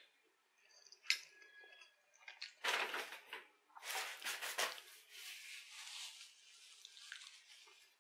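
Close-miked wet chewing and lip smacking of a mouthful of creamy carbonara pasta, loudest in two spells a few seconds in, with a single sharp click about a second in.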